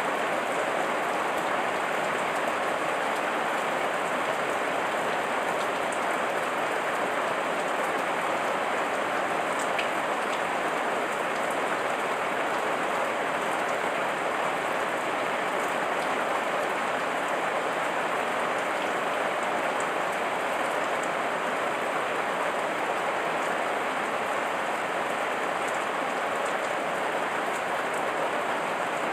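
Steady heavy rain falling and pattering on leaves, an even hiss with faint scattered drop ticks.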